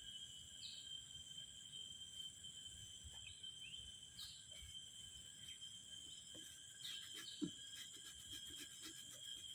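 Faint steady high-pitched drone of insects, with a few short bird chirps scattered through it and a single soft knock about seven seconds in.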